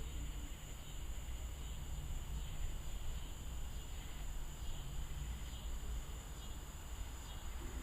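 Insects chirping steadily in the evening over a low, steady rumble of distant storm noise.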